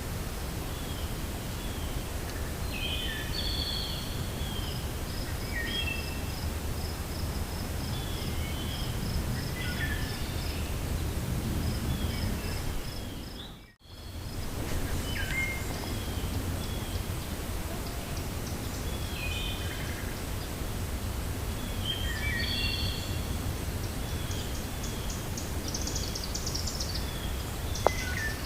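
Wind rushing steadily through a forest while songbirds chirp in short, sliding calls, with a fast run of high ticking notes for several seconds early on. The whole sound dips briefly to near silence about halfway through and comes back, and there is a single sharp click near the end.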